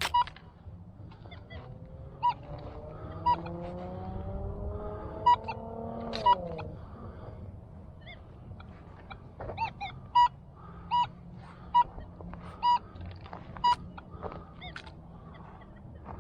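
Metal detector giving short, steady-pitched target beeps about once a second as the coil is swept over the ground. In the middle a fainter tone rises slowly for several seconds and then falls away.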